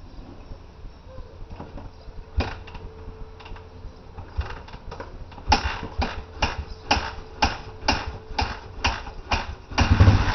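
Repeated kicks on the kick-starter of a 2002 Suzuki 125 dirt bike during a cold start. A few scattered kicks come first, then a steady run of about two a second, ending in a heavier kick near the end. The engine does not catch.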